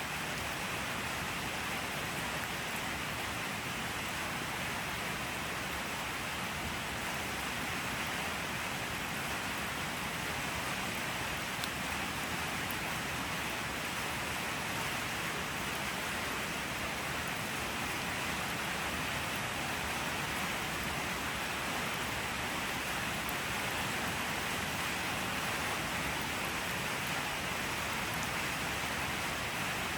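Steady, even rain hiss with no distinct drops or thunder.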